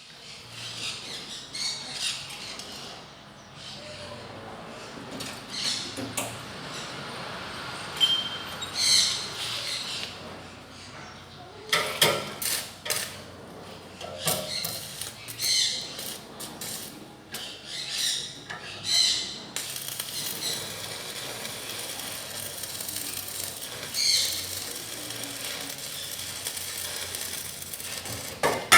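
Irregular knocks, clicks and scrapes of tools and metal parts being handled during kart repair work, a sharp tap every second or two.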